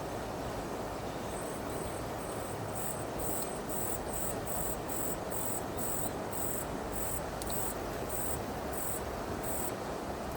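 An insect, cricket-like, calling in very high-pitched even pulses about twice a second, starting about a second in and stopping near the end, over a steady rushing noise from the stream.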